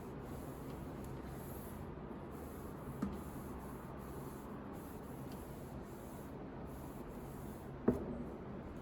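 Steady rubbing and scrubbing of a kitchen surface during cleaning, with a light knock about three seconds in and a sharper, louder knock near the end, as of an object set down.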